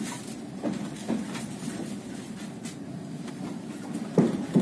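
Passenger train carriage rolling slowly, heard from inside: a steady low rumble with a few sharp knocks from the wheels and running gear, the loudest two close together near the end.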